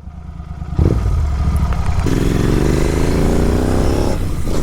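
Superbike engine through an aftermarket full-system exhaust, rumbling low, then getting louder just under a second in and accelerating, its note rising steadily from about two seconds in.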